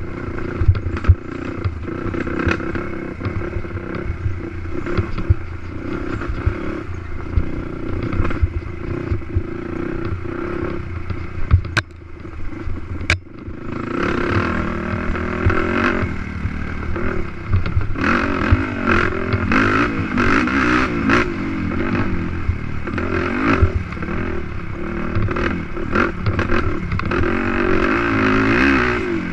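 Racing quad's engine revving up and down under load over a rough track, with knocks and clatter from the chassis. About twelve seconds in the engine briefly drops off, with two sharp knocks, then revs back up.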